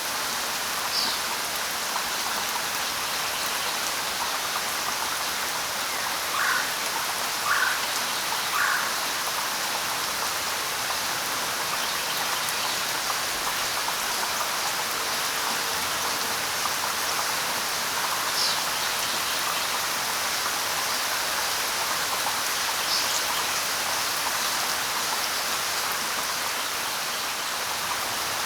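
Steady light rain falling, with a few short bird calls: a high call about a second in, three lower notes in quick succession a little later, and two more high calls in the second half.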